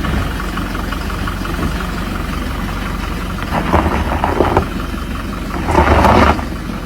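Toyota Hilux 4x4 engine running steadily, with two louder, rougher bursts of noise: a broken one around the middle and a shorter one near the end.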